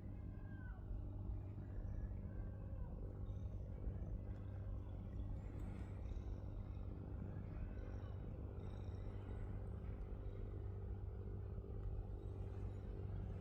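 Gray cat purring steadily and close up while being petted, with a few faint high chirps in the background.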